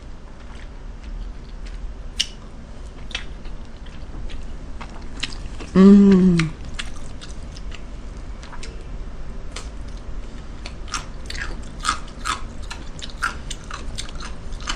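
A person chewing food close to the microphone, with many short wet mouth clicks and smacks. About six seconds in comes a brief, loud vocal sound from the eater that falls in pitch.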